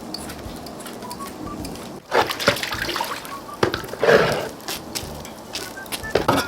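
Water sloshing and splashing, with sharp clicks and knocks, starting about two seconds in after a steady quieter background.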